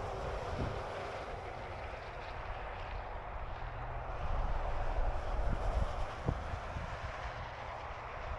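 Steady road noise of highway traffic, with a gusty low rumble of wind on the microphone; it swells slightly about four seconds in and eases again about two seconds later.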